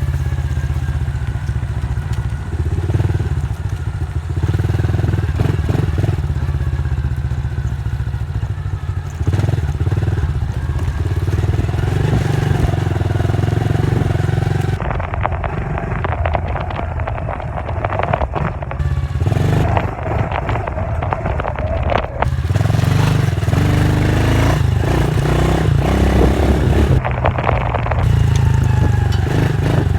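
Dirt bike engine running, its pitch rising and falling as the throttle changes, over a dense low rumble with frequent crackles and knocks.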